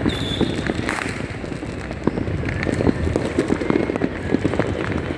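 Many fireworks and firecrackers going off at once: a dense, continuous crackle of overlapping bangs and pops, with a brief high whistle-like tone just after the start.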